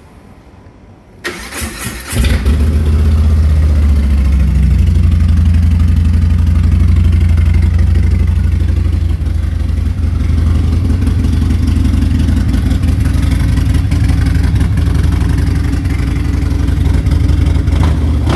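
Harley-Davidson Softail Slim V-twin with a TBR exhaust. The electric starter cranks it about a second in, and the engine catches about a second later and settles into a loud, steady idle.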